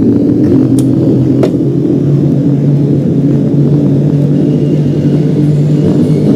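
New York City subway train running on the track: a loud, steady low rumble with a motor whine rising slightly in the first second or so, and two sharp clicks about a second in.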